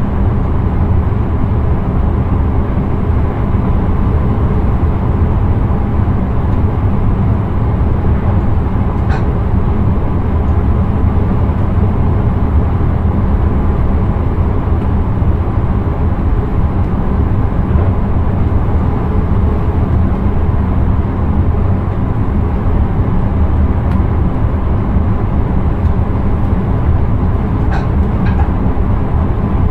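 Intercity train running steadily, heard from inside the driver's cab: a dense, even rumble of wheels on rail and running gear. A couple of faint clicks sound about a third of the way in and again near the end.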